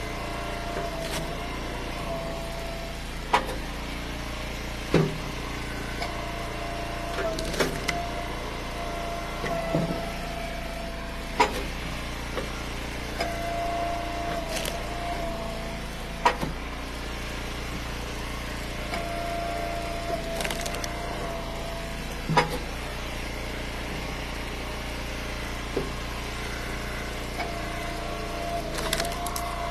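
Eastonmade Ultra wood splitter running steadily, its tone rising and dropping out as the ram cycles, with sharp cracks and knocks every couple of seconds as cherry and ash firewood rounds split and pieces fall.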